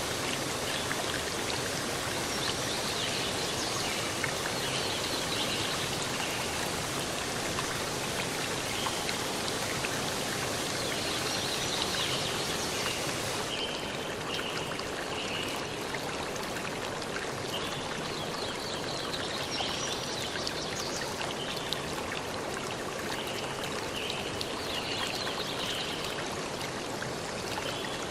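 Steady rushing of running water, like a stream, with short high chirps scattered over it. About halfway through, the hiss turns slightly duller.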